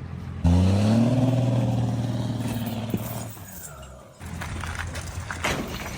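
Car engine starting to rev about half a second in, a loud pitched note rising a little and then fading over the next three seconds, followed by a quieter steady running sound.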